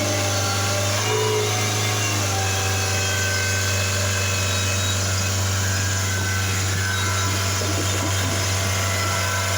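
Toyota Fortuner SUV's engine running steadily at idle, a constant low hum.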